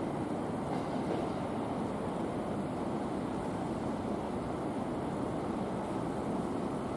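Shinkansen train moving slowly along the platform, a steady low rumble and hiss with no distinct events.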